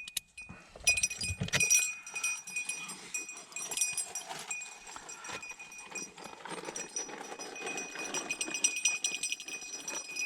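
A small bell on a hunting dog's collar jingling and ringing steadily as the dog moves, with scattered clinks and rustling through brush.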